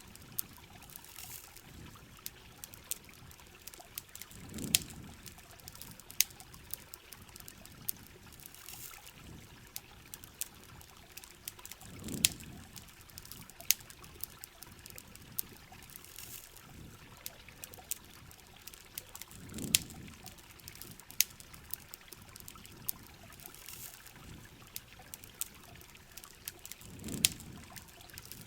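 Steady rain and trickling water, with a campfire crackling in sharp pops scattered throughout. A low swell of sound comes back about every seven and a half seconds.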